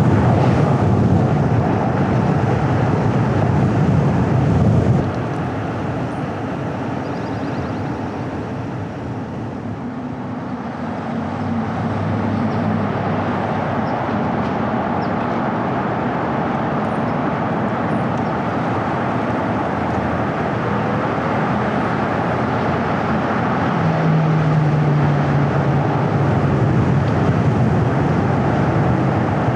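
Car driving on a road: a steady rumble of engine and tyre noise. It drops quieter about five seconds in and builds again later, with a low engine note standing out for a couple of seconds near the end.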